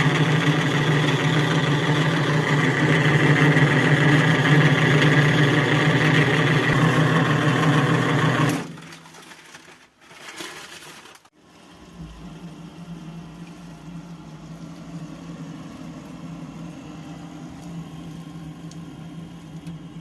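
A gas boiler's circulation pump running loudly with a steady hum and a rough mechanical noise: the sign of a failing pump that should be switched off. About eight and a half seconds in it stops. After a short gap, a replacement pump runs much more quietly with a low steady hum.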